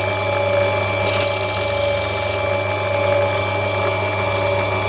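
Opal cutting machine running with a steady motor hum, and a grinding hiss from about a second in until about two and a half seconds in as the opal is pressed onto the wheel to rub it back.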